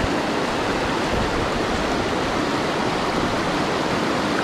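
River water running steadily over rocks in a shoal rapid, a loud, even rushing.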